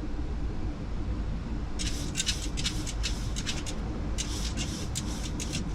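Steady low rumble of airflow and engines inside a Boeing 737 cockpit on final approach. About two seconds in, irregular clusters of sharp, hissy crackles start and recur to the end.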